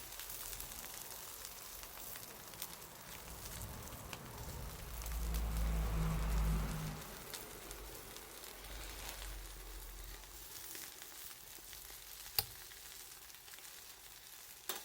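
Food sizzling as it grills over a wood bonfire, a steady hiss broken by small crackles and pops from the fire. A low rumble swells for about two seconds near the middle, and one sharp snap comes near the end.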